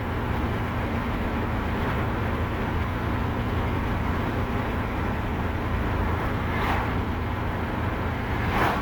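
Steady low rumble and hiss of a motor vehicle, like engine and road noise heard from inside a car, with two brief swishes near the end.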